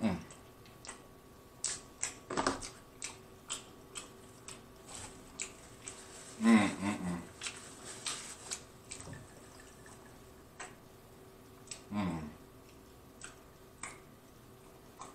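Close-miked chewing of a mouthful of food, with wet mouth clicks and smacks throughout and a few short hums, the loudest about six and a half seconds in.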